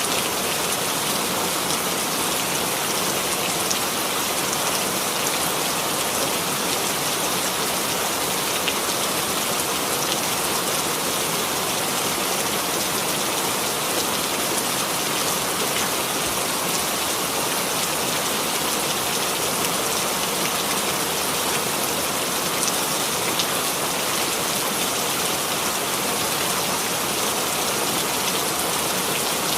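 Steady rain falling, an even patter of drops on a surface.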